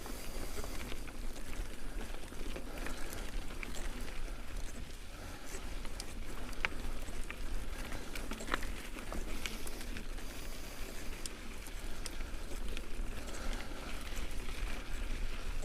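Mountain bike tyres rolling uphill over a gravel trail: a steady crunch with scattered sharp clicks of small stones.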